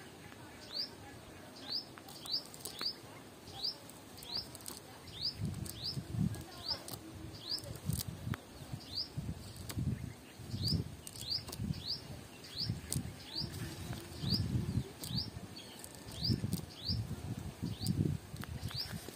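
A small bird calls over and over with short rising chirps, about one and a half a second. From about five seconds in, irregular rustling of a cast net being handled and shaken as fish are picked out of it.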